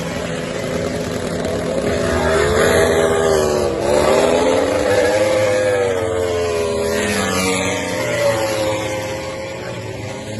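MotoGP prototype racing motorcycles' engines revving on track. Several engine notes overlap, rising and falling in pitch, with a dip about four seconds in.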